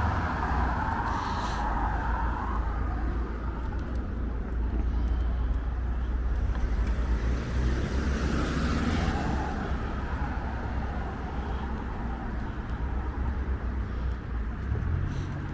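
Road traffic on a town street: a steady low rumble of vehicles, with a car passing that swells to its loudest about two thirds of the way through.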